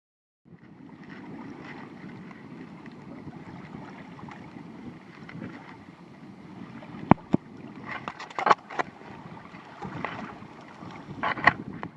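Water washing and slapping around a sea kayak on open sea, with wind on the microphone, and a few brief sharp hits about seven seconds in, around eight to nine seconds and near the end.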